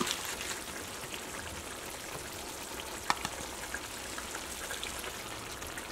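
Chicken curry gravy sizzling steadily in an open pan on the stove, with a light click about three seconds in.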